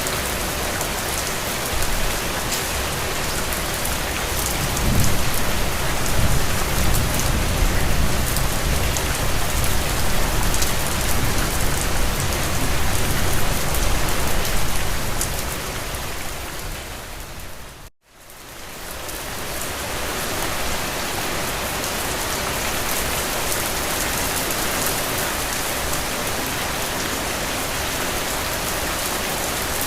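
Steady rain falling, with a low rumble underneath for several seconds in the first half. Around two-thirds of the way through the rain fades out to silence and fades straight back in.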